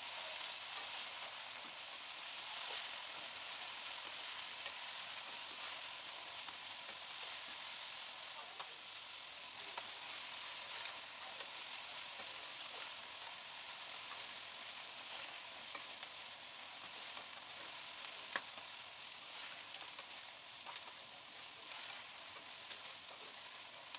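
Steady oil sizzle of sliced onions and green bell pepper stir-frying in a wok, turned with a spatula, with a few sharp clicks of the spatula against the pan near the end.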